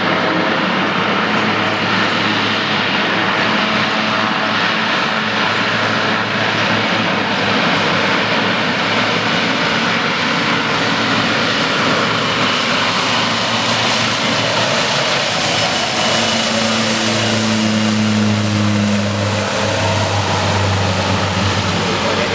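Propeller airplane's engines running at takeoff power: a loud, steady roar with a low drone that grows stronger in the last few seconds.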